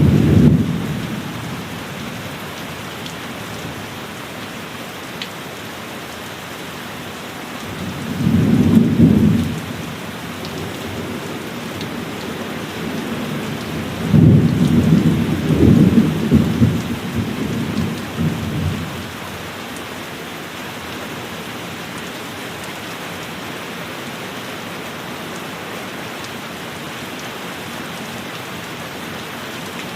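Thunderstorm: steady heavy rain with rolls of thunder, one at the very start, one about eight seconds in, and a longer, louder roll from about fourteen to nineteen seconds.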